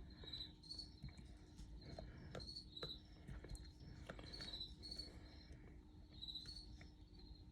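Faint cricket chirping: short high chirps repeating about every half second, over a low steady hum, with a few faint clicks.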